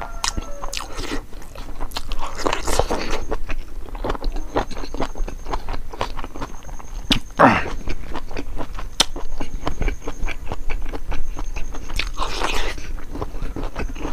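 Close-miked wet chewing and lip-smacking of a mouthful of chicken gizzard curry and rice, with many quick mouth clicks.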